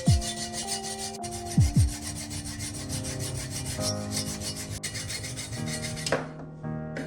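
Abrasive rubbing on the metal hammer head, like sanding or filing away rust, over background music with deep falling bass hits. The rubbing stops about six seconds in.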